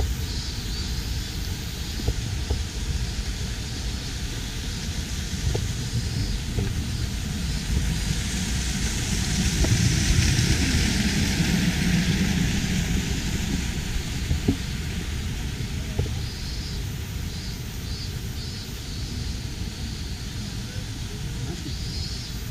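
Steady rushing of a mountain stream with a low rumble, growing louder for a few seconds around the middle. Faint repeated high chirps come and go, with a few soft knocks like footsteps on the trail.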